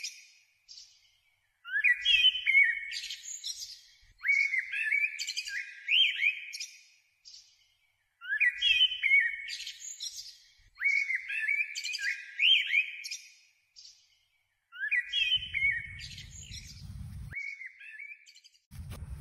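A bird chirping in repeated phrases of quick rising and falling notes, each phrase about two seconds long, separated by silent gaps.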